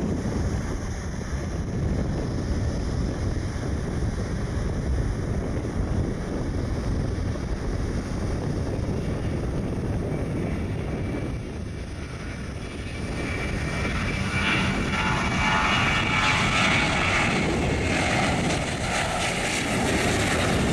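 Boeing 737-700's CFM56 jet engines spooling up to takeoff thrust. The low rumble and wind give way, about two thirds of the way in, to a rising high-pitched whine that grows louder and stays loud as the takeoff roll begins.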